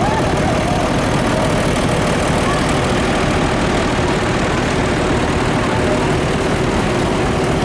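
Vintage tractor engine running steadily at idle.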